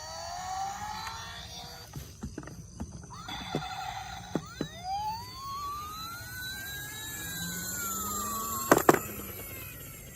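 Toy emergency-vehicle siren wailing in gliding tones that rise and then fall slowly, with scattered clicks and two sharp knocks near the end.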